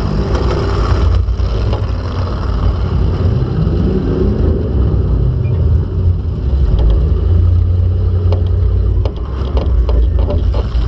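Demolition derby car's engine heard loud from inside the car, running and revving up about four seconds in, with a few sharp knocks and rattles near the end.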